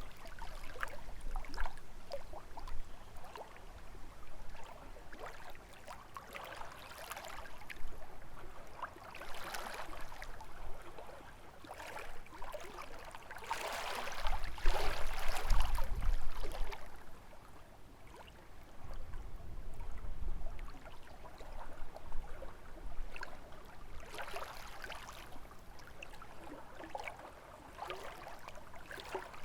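Small lake waves lapping and splashing against the shore, swelling and falling in irregular surges, the biggest about halfway through. Gusts of wind rumble low on the microphone now and then.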